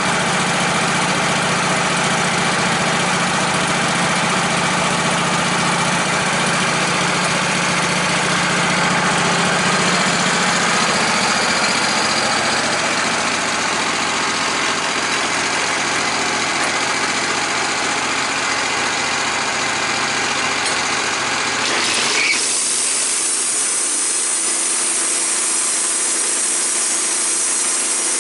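An engine running steadily; about 22 seconds in the sound changes suddenly, the low hum falling away and a bright, even hiss taking over, as a saw starts cutting wood.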